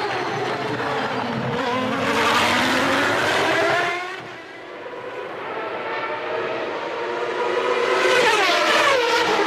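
Formula One racing engine at high revs, its pitch rising and falling steeply as it changes gear. The sound dips about four seconds in, then builds again and falls in steps near the end as it downshifts.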